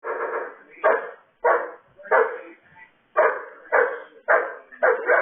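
A dog barking over and over, about eight barks in a steady rhythm, the first one longer and drawn out.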